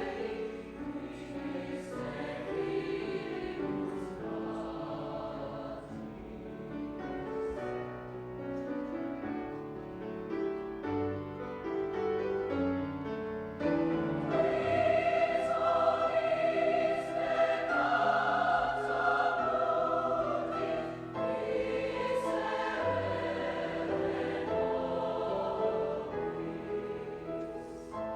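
High school choir singing held, multi-part notes, swelling louder about halfway through.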